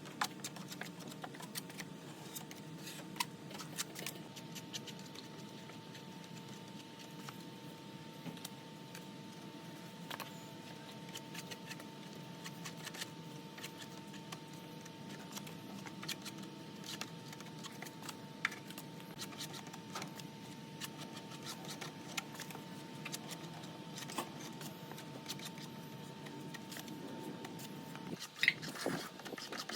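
Quiet workshop sounds: scattered small metallic clicks and clinks over a steady low hum with a thin, constant whine. A cluster of louder clicks comes near the end.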